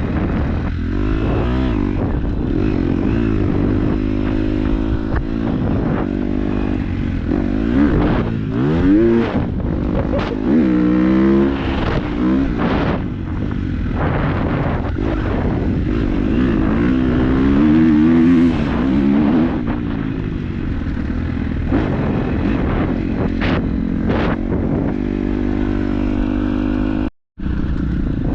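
KTM 250 dirt bike engine running on a rough trail, its pitch rising and falling as the throttle is opened and closed, with scattered knocks and clatter. The sound cuts out for a moment near the end.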